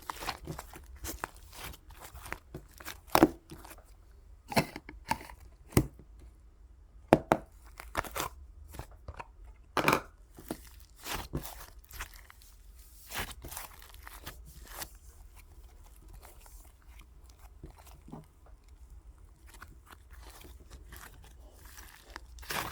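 Slime being squeezed, stretched and pressed by hand, giving irregular crackling pops and clicks, a few of them sharp and loud.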